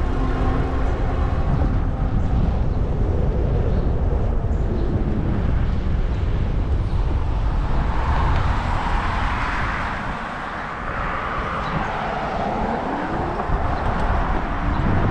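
Wind rushing over the microphone of a bike-mounted action camera while riding a fat tire e-bike, with steady tyre and drivetrain noise underneath. A brighter hiss comes in for a few seconds in the second half.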